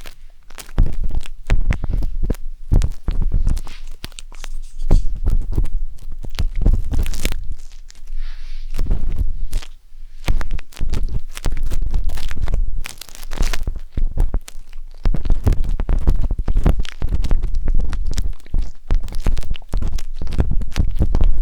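Wooden skewer scraping and rubbing inside the silicone ear of a 3Dio binaural microphone: close, irregular scratching strokes with deep rumbles where it touches the mic.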